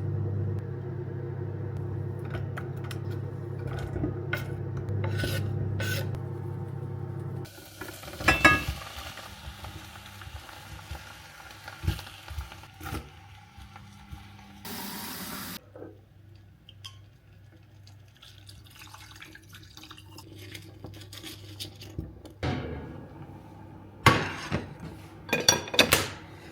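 Kitchen cooking sounds. A steady appliance hum cuts off about seven seconds in, then utensils clink and scrape against pots and dishes, with a short hiss around the middle and several sharp clacks near the end.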